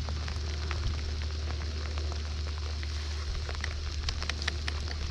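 Rain pattering, with many small irregular ticks of drops over a steady hiss and a constant low rumble underneath.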